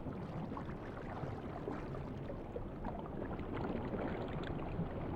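Muffled underwater water ambience: a steady wash of water with scattered small bubbling ticks.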